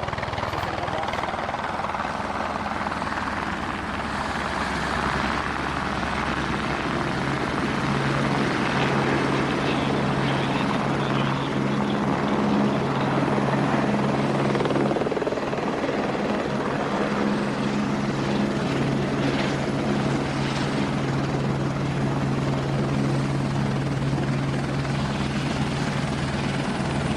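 Single-engine light aircraft, a Socata Rallye 110 ST, its four-cylinder piston engine and propeller running steadily.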